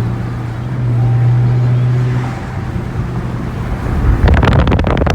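Car engine and exhaust droning steadily while driving, then getting louder with a rapid pulsing about four seconds in.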